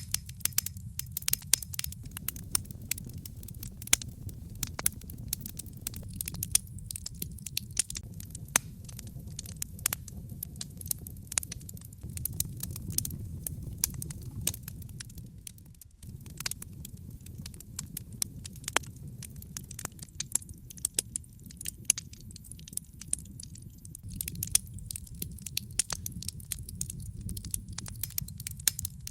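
Log fire burning in a fireplace, crackling with frequent sharp irregular pops over a steady low rumble of the flames. The sound briefly dips about halfway through.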